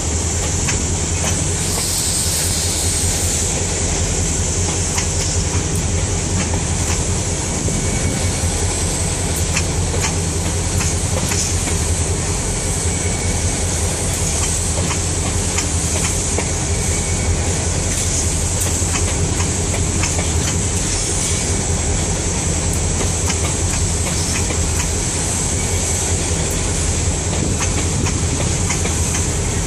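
Freight train of grain hopper cars rolling steadily past: continuous wheel-and-rail rumble with dense clicking and clatter as the wheels cross rail joints.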